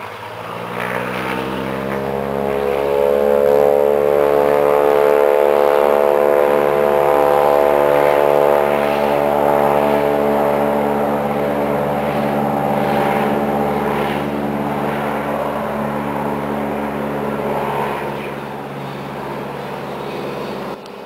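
Propeller airplane flying past with a steady engine drone that grows louder over the first few seconds, holds, then slowly fades.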